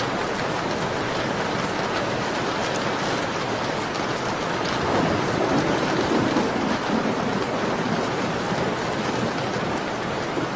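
Steady rain on a window pane mixed with a crackling fireplace, with a louder swell of rain about halfway through.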